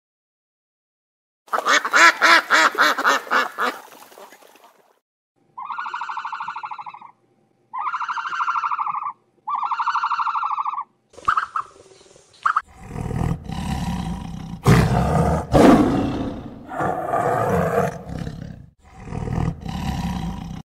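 A run of animal calls: a rapid pulsed call, then three drawn-out calls of about a second and a half each, then, from about two-thirds of the way in, a white tiger roaring loudly with deep, rough calls.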